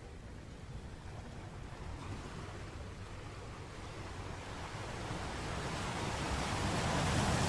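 Sea waves washing onto a shore: a steady rush of surf that swells slowly to a peak near the end as a wave breaks.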